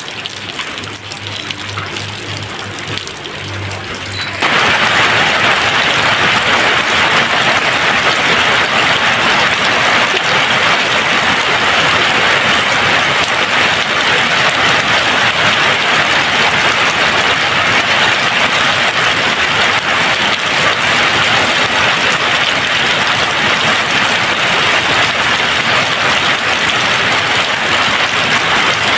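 Steady rainfall, which switches abruptly about four seconds in to a louder, denser downpour that then holds steady.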